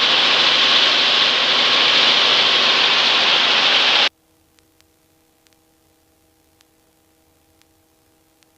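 Steady loud hiss of helicopter cabin noise picked up by an open intercom headset microphone, cutting off abruptly about four seconds in, leaving near silence with a faint steady hum and a few tiny ticks.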